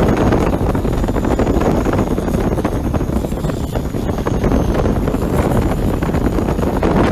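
Turbocharged common-rail diesel engine of a Thai longtail racing boat running steadily at speed, with heavy wind buffeting on the microphone and a faint high whine above it.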